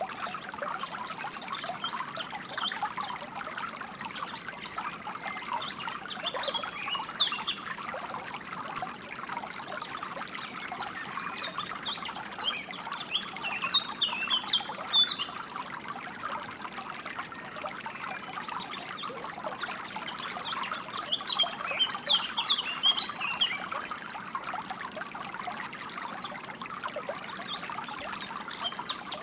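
Water trickling and babbling in a small stream, steady throughout. Songbirds sing in bursts of quick high chirps over it, loudest at about 14 seconds and again at about 21 to 23 seconds.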